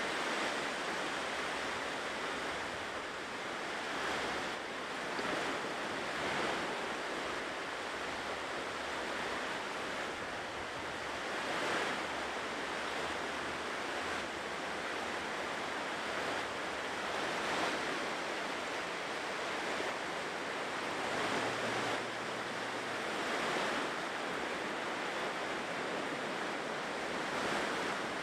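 Ocean surf washing on a shore: a continuous hiss of breaking waves that swells and eases every few seconds.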